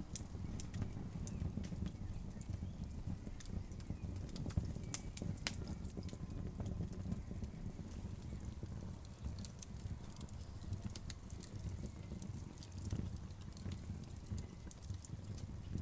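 Wood fire burning outdoors, with irregular sharp crackles and pops from the logs over a steady low rumble.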